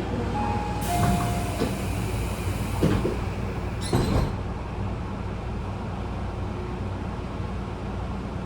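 Inside a Tobu 10000-series electric train car: a hiss of air with several thuds over the first four seconds, as the sliding doors close, then a steady low hum from the car standing still.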